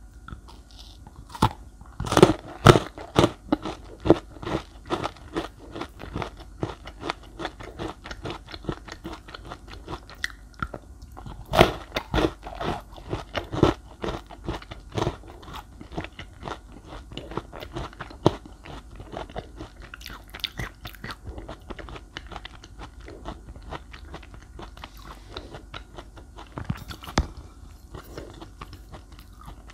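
Close-miked chewing of chocolate-glazed layer cake, a run of crisp crackles and wet mouth clicks, with louder crunchy bites about two seconds in, around twelve seconds in and near the end.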